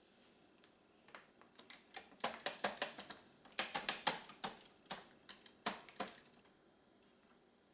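A quick, irregular run of small plastic clicks and taps from handling the Roomba's brush and roller parts, starting about a second in and stopping a little over a second before the end.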